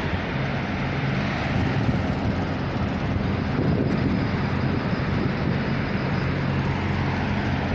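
Idling truck engines: a steady, unchanging low drone with a constant hum.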